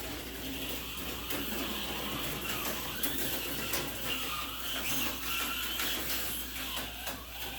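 Tyco HO slot car with a Bulldog chassis running on plastic track, its small electric motor whining with a steady clatter of small clicks from the pickups and guide pin over the rails. It runs over a piece of track the owner finds uneven, which the car doesn't like.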